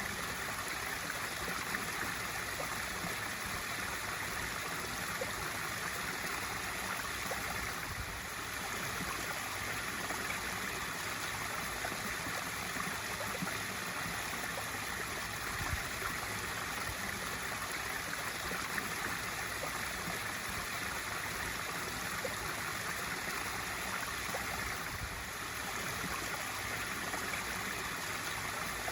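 Pool waterfall running steadily: water spilling into a swimming pool with a constant splashing rush.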